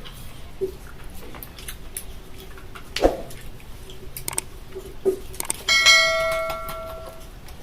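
A metal object is struck once a little before the end and rings with a bell-like tone that fades over about a second and a half. Scattered knocks and clatters come earlier.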